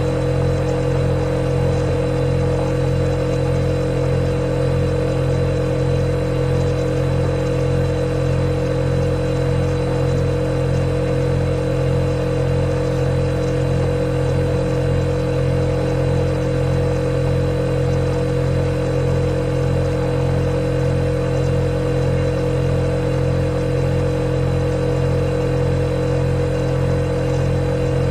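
Refrigerator running with a steady, unchanging hum: a low drone with a strong middle tone and a thin high whine above it.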